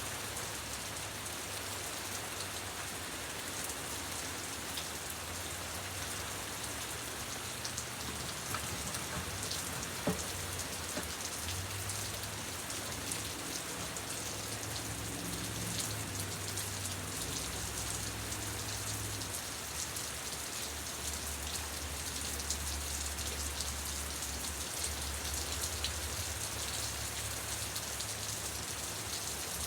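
Steady rain falling and pattering on surfaces, with a single sharp knock about ten seconds in.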